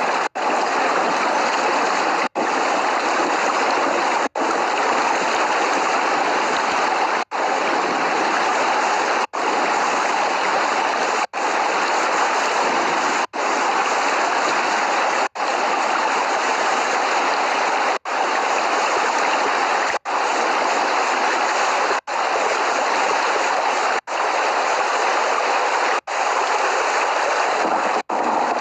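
Steady heavy rain, an even hiss with no thunder, cut by a brief gap of silence about every two seconds.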